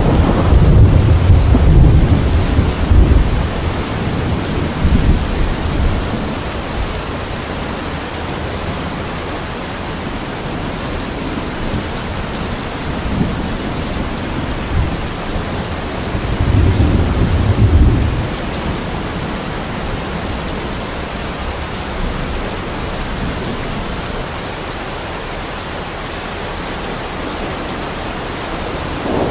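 Heavy rain falling steadily in a thunderstorm, with rolls of thunder rumbling low at the start and again a little past the middle.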